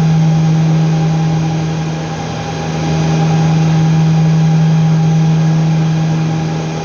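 Loud, steady machine hum with a strong low tone and fainter higher overtones, unchanging throughout.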